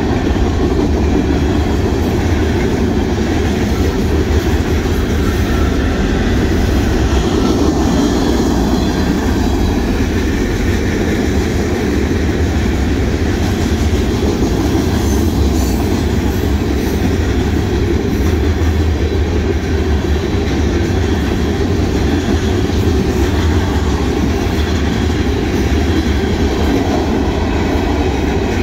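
Union Pacific mixed freight train's cars rolling past at speed: a loud, steady rumble and rattle of steel wheels on the rails.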